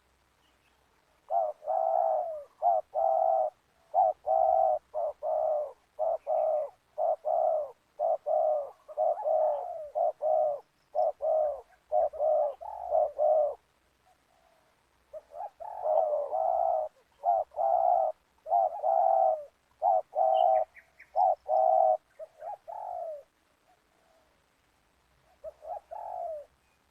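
Spotted doves cooing in long runs of quick, repeated coos, in two long bouts and then a short one near the end.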